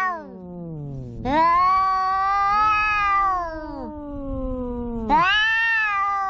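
Two tomcats caterwauling at each other in a fight over a female: long, drawn-out yowls that overlap. One voice holds a low, slowly sliding wail throughout, while the other breaks in twice with a loud, higher yowl, about a second in and again near the end. These are the threat calls of rival males.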